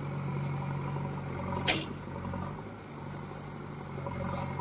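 JCB backhoe loader's diesel engine running steadily, with a single sharp knock about one and a half seconds in.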